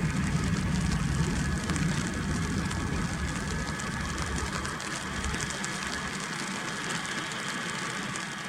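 Icelandair Boeing 757 jet engines after landing: a steady broad jet noise with a low rumble that gradually fades over the last few seconds. Rain hiss runs under it.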